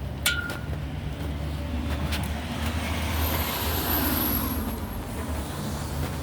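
A motor vehicle passing on the wet road: engine hum and tyre hiss swell to their loudest about four seconds in, then fade. A sharp click comes just after the start.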